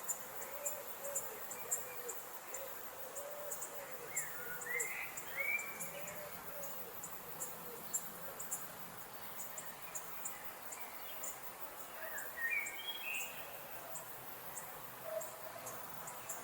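Tropical rainforest ambience. Insects chirp in short, high pulses throughout, and a low wavering animal call repeats through the first half. A higher whistled bird call sounds twice, about four seconds in and again about twelve seconds in.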